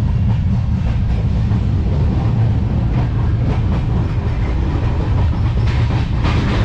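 Passenger train running, heard from inside a sleeper-class coach: a steady low rumble from the running gear, with occasional clacks of the wheels over the rails.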